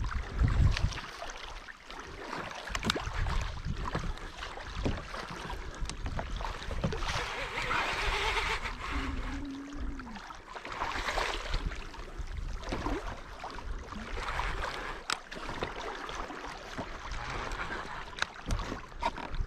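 Wind on the microphone and water sloshing around an ocean kayak, with scattered small clicks and knocks from gear on the hull while a hooked fish is being played.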